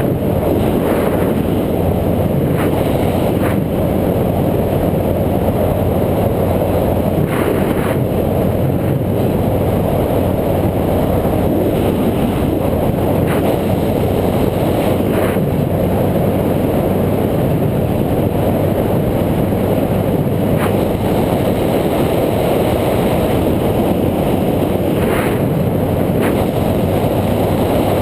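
Steady rumbling wind and road noise on an action camera's microphone during a bike ride, with a few short knocks from bumps.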